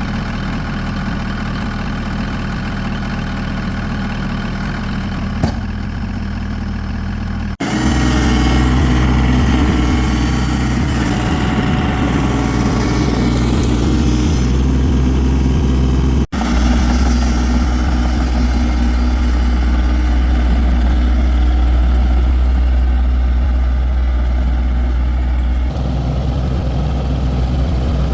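Large engine idling steadily. The sound breaks off abruptly about seven and a half seconds in and again about sixteen seconds in, and is louder after the first break.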